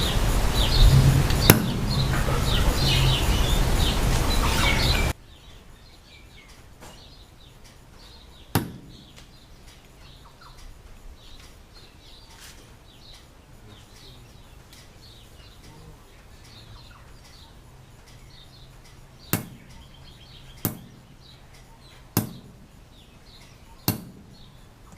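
Sharp metal taps of a hammer on a punch, stamping small identification marks on engine parts: one tap, then four more spaced about a second and a half apart near the end. Before them, a loud steady noise with birds chirping cuts off suddenly about five seconds in.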